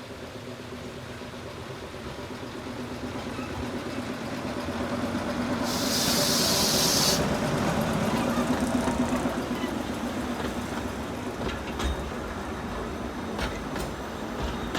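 Small forest-railway train running and drawing closer, its engine growing steadily louder. About six seconds in, a loud hiss of air lasts a second or so, and a few sharp clicks come near the end.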